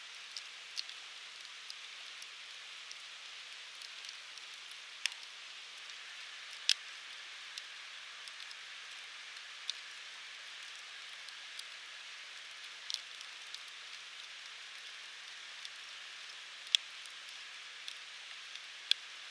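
Firewood burning in a Uniflame Fire Grill fire stand: a steady soft hiss with scattered sharp crackles and pops, two of them louder, about seven and about seventeen seconds in.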